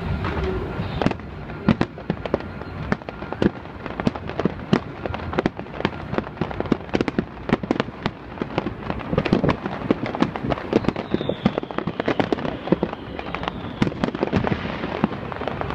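Fireworks display: a dense, rapid run of sharp bangs going off many times a second, starting about a second in.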